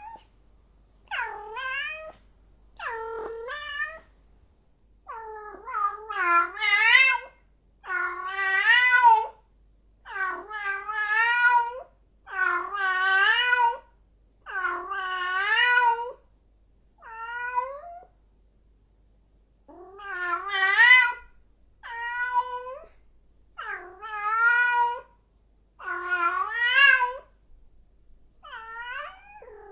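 A cat meowing over and over: about fifteen drawn-out calls of a second or two each, with wavering pitch and short pauses between them.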